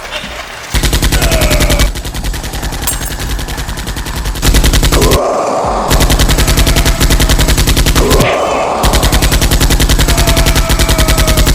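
Rapid automatic-gunfire sound effects in long bursts, with a very fast, even rate of fire. The firing eases for a couple of seconds and breaks briefly twice.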